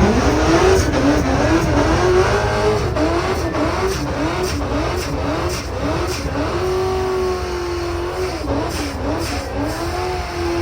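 Car engine revved hard, its pitch swinging up and down about twice a second and held high twice, as if the throttle is being pumped.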